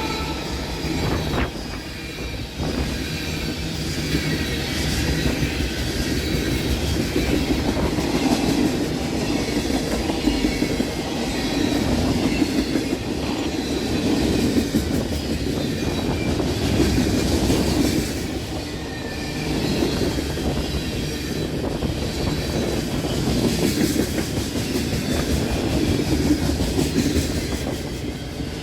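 Freight train cars rolling past at close range: a steady rumble of steel wheels on rail with a continuous clickety-clack over the rail joints.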